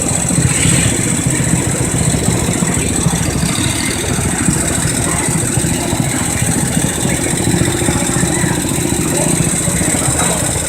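Garden tractor engine idling steadily, with no revving.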